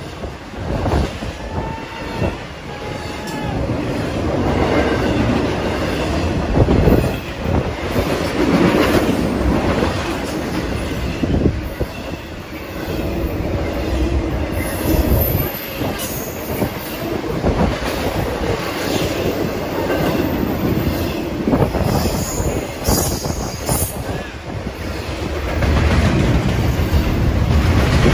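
Empty BNSF intermodal freight train (trailers and containers on flatcars) passing close at speed: a steady rumble and clatter of wheels over the rails. Brief high-pitched wheel squeals come in a few times.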